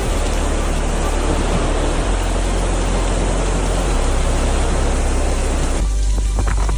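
Gale-force storm wind and heavy rain, a dense steady rushing noise with heavy wind buffeting on the microphone. The rush drops away suddenly near the end, leaving the low buffeting and a few knocks.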